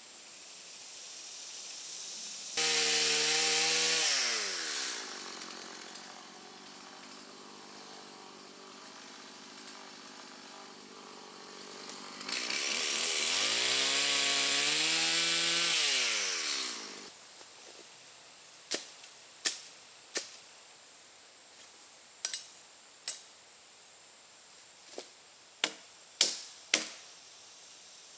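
Chainsaw run at high revs for about a second and a half, dropping back to a lower idle, then held high again for about four seconds before falling back and stopping. About ten sharp knocks follow, spaced irregularly.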